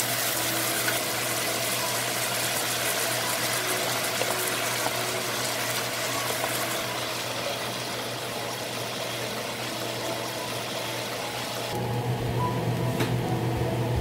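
Egg noodles and vegetables sizzling in a hot oiled wok, a steady hiss that thins after about seven seconds. About twelve seconds in, the sizzle drops off suddenly and background music takes over.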